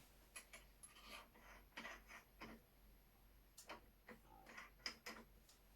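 Faint, irregular clicks and light taps of small metal tools being handled while a drill bit is picked out and set up at a drill press.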